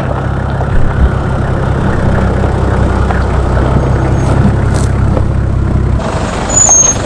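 A 4x4 vehicle's engine running steadily at idle, with a sudden change in the sound about six seconds in.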